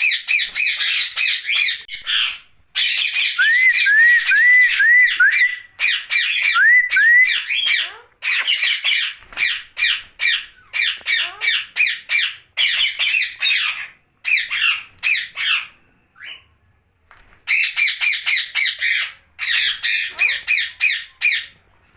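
Ringneck parakeet giving rapid runs of harsh, screeching calls, with a few short upswept whistled notes in the first third and a brief pause about two-thirds of the way through.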